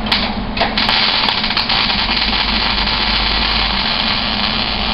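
Welder spot welding new weld-on body panels onto a car: a steady, loud hiss of the weld that begins about a second in, after a couple of short clicks.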